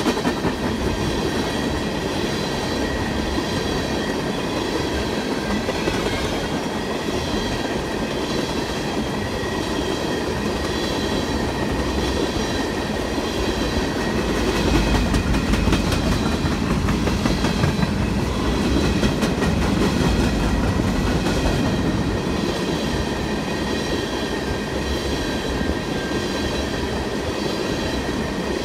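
Freight train cars rolling past at steady speed: a continuous rumble of wheels on rail with clickety-clack, and a steady high-pitched whine from the wheels and rails above it, swelling slightly about halfway through.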